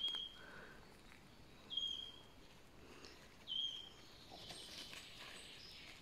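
A small songbird repeating one short, high whistled note three times, about two seconds apart, over a faint woodland background.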